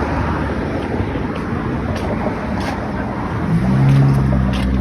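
Steady rushing noise of rain and road traffic. A vehicle engine's low, steady hum joins about three and a half seconds in and is loudest around four seconds.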